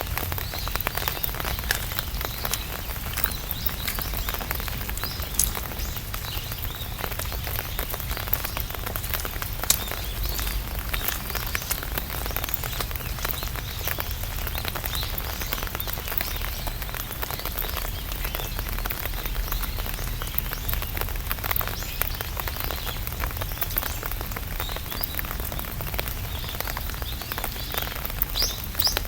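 Rain falling on an umbrella canopy: a dense, steady patter of drops over a low rumble.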